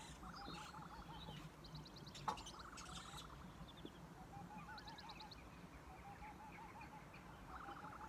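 Faint chorus of several songbirds: a rapid high trill repeating every second or two, a lower buzzy trill, and a steady run of short chirping notes. A single soft click sounds a little over two seconds in.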